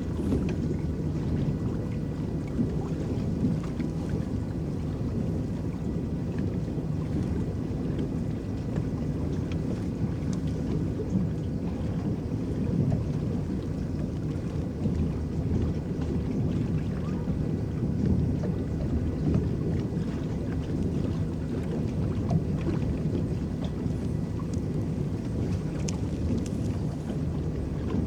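Electric paddle boat under way on a lake, its paddles churning the water in a steady, even low wash.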